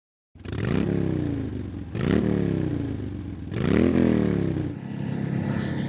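Ducati Hypermotard's L-twin engine revved three times, each time the pitch jumping up quickly and falling back more slowly, then settling to a steadier lower note near the end.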